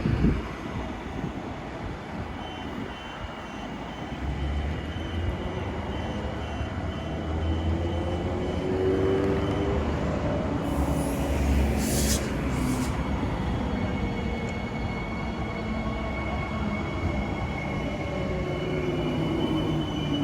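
A passenger train running at the station, with a steady low rumble and a few tones that slowly rise and fall. A short hiss comes about twelve seconds in.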